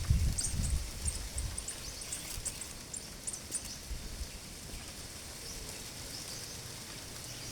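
Outdoor rural ambience: breeze rumbling on the microphone, strongest in the first second, with many short, high-pitched chirps scattered through the first half.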